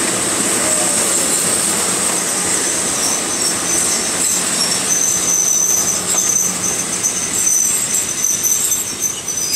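Passenger coaches of a commuter train rolling past close by: a steady rush and rumble of wheels on the rails. From about halfway through, a thin high squeal comes and goes.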